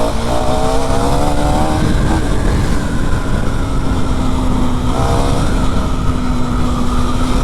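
KTM Duke 390's single-cylinder engine pulling hard as the bike accelerates, its pitch rising over the first two seconds and again about five seconds in, with a steady engine tone between, over a constant rush of wind and road noise.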